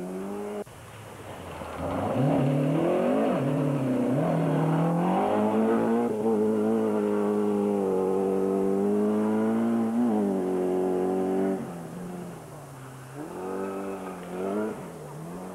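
Rally car engine accelerating hard, its pitch climbing and dipping at each gear change, then held at high revs for several seconds before easing off. Short bursts of rising revs come again near the end.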